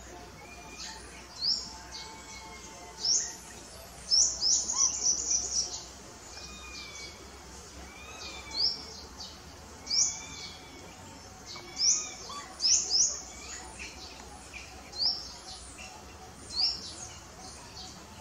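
Small birds calling: short, sharp high chirps every second or two, with a quick run of chirps about four seconds in, and fainter whistled notes underneath.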